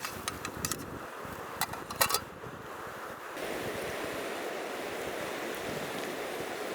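A few sharp clicks and snaps in the first two seconds. From about three and a half seconds in, a steady rushing like a flowing river takes over.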